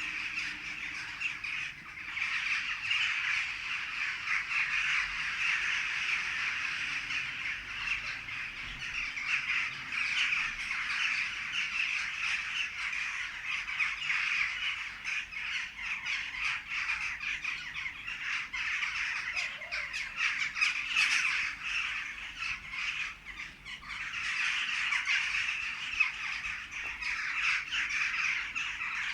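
Many birds chirping and calling at once in a dense dawn chorus, a continuous chatter of short, high calls.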